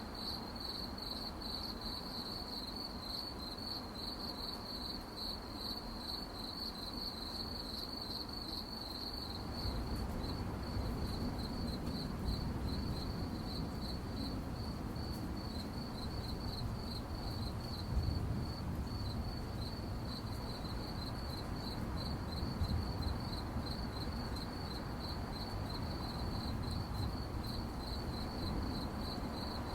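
Crickets chirping in a fast, steady, high-pitched pulsing trill. About ten seconds in, a low rumble of background noise comes up underneath.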